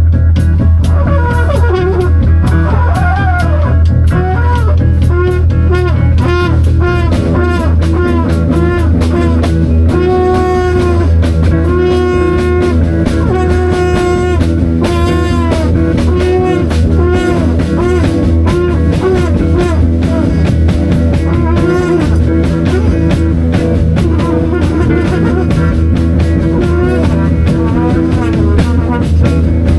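Live band improvising: drum kit playing a steady beat under a strong bass line, with guitar and a sliding melodic lead over the top.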